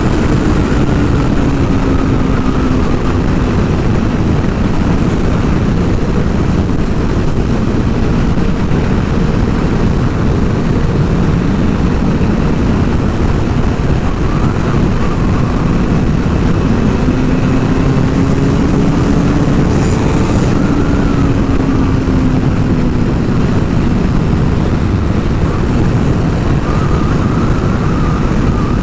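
Sport motorcycle riding at a steady speed: heavy wind rush over the microphone, with the engine note gently rising and falling under it.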